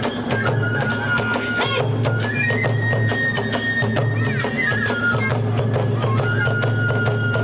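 Hiroshima kagura hayashi music: a transverse bamboo flute holds long high notes over rapid, continuous drum and hand-cymbal strikes.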